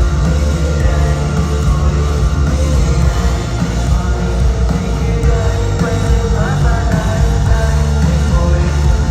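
Live rock band playing loudly, with distorted guitars and heavy bass and drums filling the low end.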